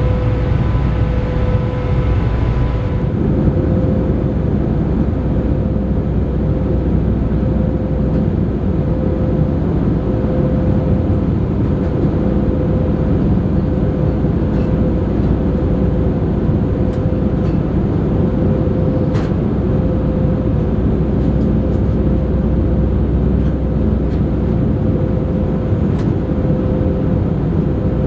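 Steady drone inside an Airbus A318 passenger cabin: jet engines and cabin air running, with a constant hum. A few higher tones drop out about three seconds in.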